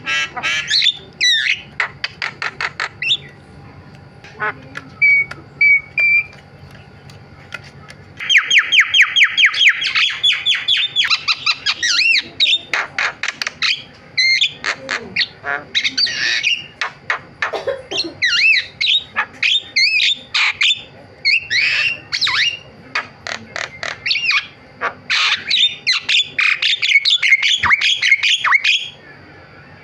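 Javan myna singing a varied song of harsh squawks and whistled notes, with fast runs of repeated notes. It is sparse for a few seconds, then loud and dense from about eight seconds in.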